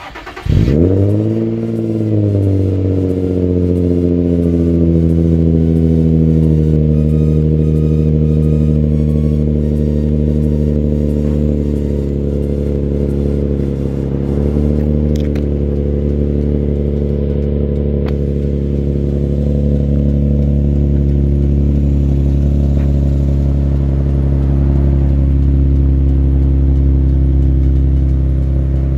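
Infiniti G35's 3.5-litre V6 starting cold through its modified exhaust. It cranks briefly, catches with a quick rev flare that falls back within about two seconds, then settles into a steady high cold idle that slowly eases lower.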